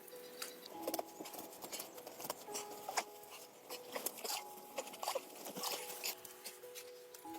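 Soft background music of short held notes, over irregular soft pats and sharp clicks of hands working wet soil-and-straw plaster onto a stick-frame dome.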